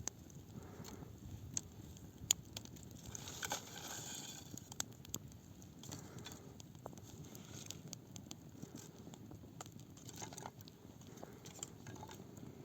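Wood campfire crackling, with scattered sharp pops over a low steady rumble and a brief hiss a few seconds in.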